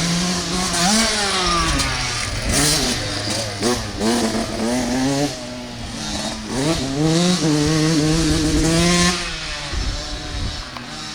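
Dirt bike engine revving hard and changing gear as it rides the motocross track. The pitch climbs, drops at each shift and climbs again several times.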